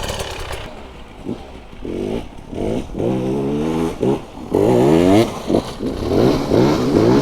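Dirt bike engine revving in repeated throttle bursts, its pitch climbing with each one. It is quieter for the first couple of seconds and gets louder from about five seconds in.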